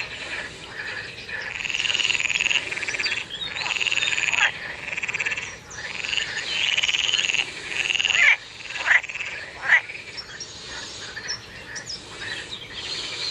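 A frog calling: trilled calls about a second long, repeated every couple of seconds, with a few short falling chirps in the middle.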